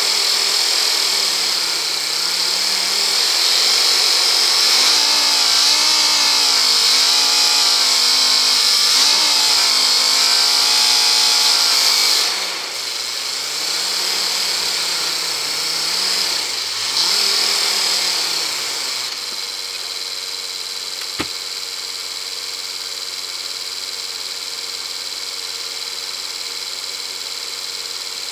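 Land Rover engine running as the vehicle drives, its pitch rising and falling with the revs. About two-thirds of the way through it settles to a steady idle, with a single sharp click soon after.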